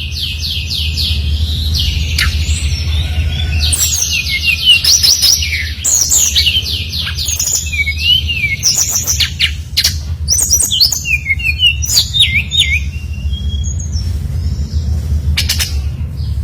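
SRDC (brown-chested jungle flycatcher) in full song: fast, varied runs of high whistled notes and trills, one phrase after another. A steady low hum runs beneath.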